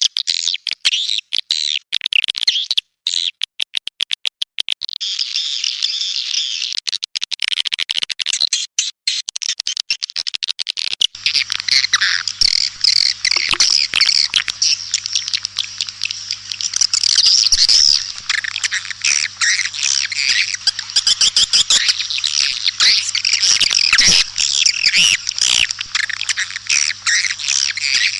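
Swiftlets calling: a dense, rapid stream of chirps and twitters, the kind of recorded swiftlet call played to draw the birds to a nesting house. About a third of the way in the recording changes and a steady low hum runs underneath.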